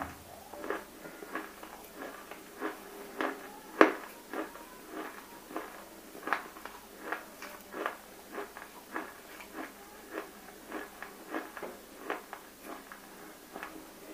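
Close-miked chewing of water-soaked, full-roasted nakumatt clay: short wet crunches about one and a half to two a second, with one much louder crunch about four seconds in.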